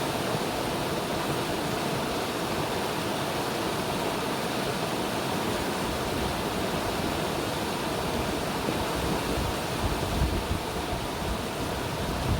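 River water rushing steadily. Low rumbling buffets join in near the end.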